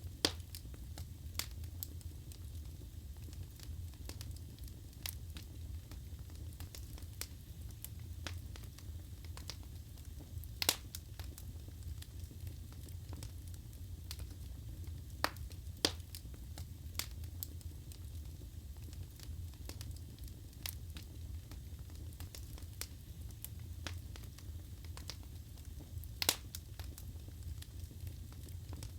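Wood fire burning in a fireplace: a steady low rumble of flame with scattered crackles and a handful of louder pops, among them one about eleven seconds in and one near the end.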